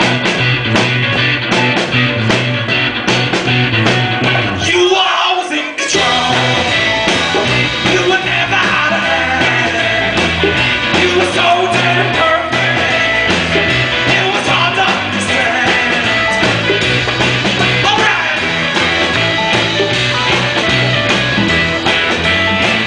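Live rock band playing a song, with a steady drum and bass beat under guitars. About four and a half seconds in the low end drops away for over a second, then the full band comes back in with a hit.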